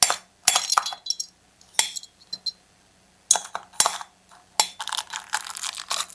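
Small metal engine parts from a replacement chainsaw engine kit clinking and rattling as they are handled and set down, in several short bursts.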